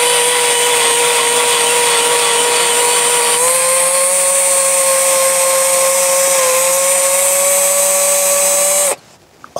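Small electric drill running steadily at speed while drilling out a small metal tube to take a pin. Its whine steps slightly higher about three and a half seconds in, and it stops abruptly shortly before the end.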